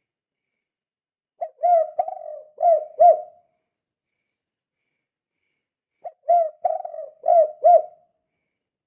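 Spotted dove (tekukur) cooing in the 'kuk 2' song style, used as a lure call. It gives two phrases of about five low coo notes each, with a gap of about three seconds between them.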